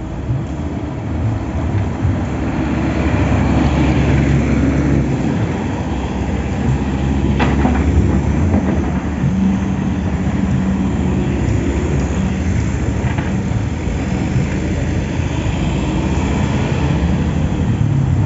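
Excavator's heavy diesel engine running steadily under load while it digs up a road surface, with a single sharp knock about seven and a half seconds in.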